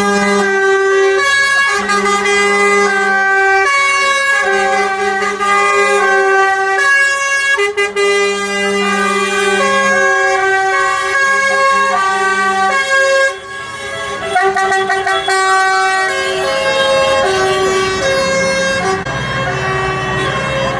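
Vehicle air horns sounding a tune in long held notes, several pitches at once, stepping from note to note, with one short break about two-thirds of the way through.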